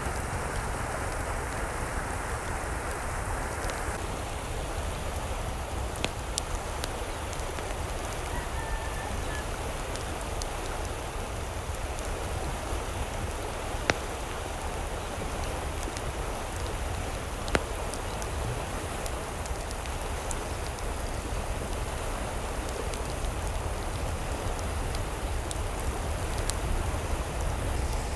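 Steady hiss of water, with a few sharp single taps of drops, the loudest two about halfway through and a few seconds later.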